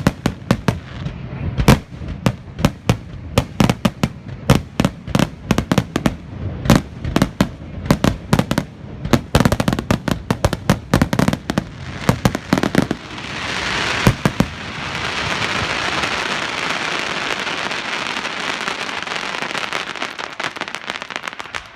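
Fireworks display: aerial shells bursting in rapid succession, many sharp bangs, giving way about thirteen seconds in to a dense, steady crackling that thins out near the end.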